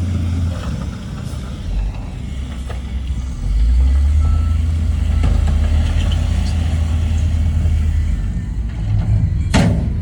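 Heavy diesel earthmoving machinery running with a steady low engine rumble that grows louder about a third of the way in. A brief sharp noise comes near the end.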